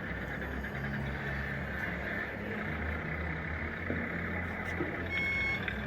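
Simulated diesel engine of a 1:14 scale RC truck or loader's sound module, running with a steady low rumble. A reversing beeper starts near the end.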